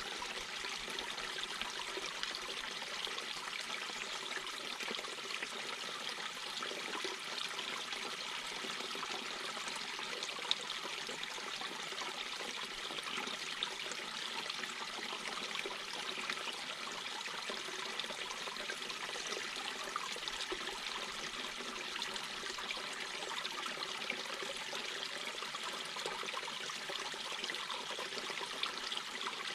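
Mountain brook babbling and trickling over rocks, a steady rush of running water.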